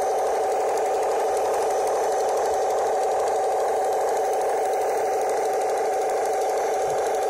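1:16 RC M26 Pershing model tank running, a steady mechanical drone that stays even and unchanging throughout.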